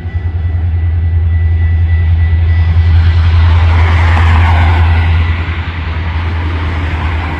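A train passing close by: a deep, steady rumble with a rush of noise that swells to its loudest about four seconds in, then eases off.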